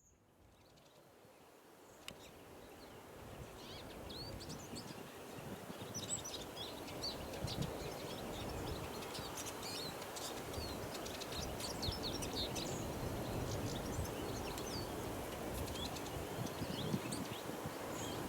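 Eurasian siskin twittering: many quick, high chirps and squeaky notes over a steady low background rumble. The sound fades in over the first few seconds.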